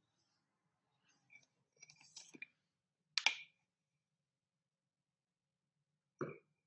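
Faint rustling and small clicks of a person shifting and stretching on a yoga mat, with one sharper click a little after three seconds in and a duller knock near the end.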